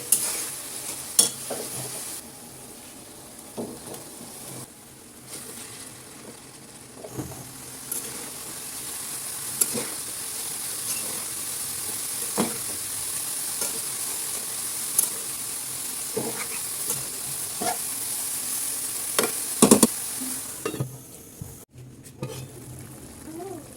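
Food frying and sizzling in a pan while it is stirred, with scattered clicks and scrapes of the spatula against the pan. The sizzle drops away a few seconds before the end.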